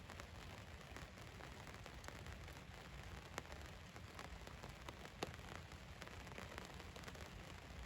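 Rain falling on a van's roof: a soft, steady patter with scattered single drops striking sharper, two of them louder near the middle.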